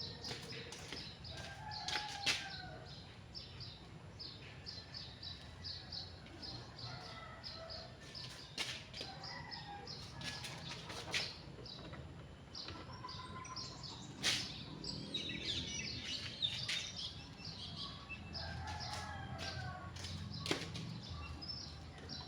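Small birds chirping in quick repeated short notes, with scattered sharp clicks and knocks.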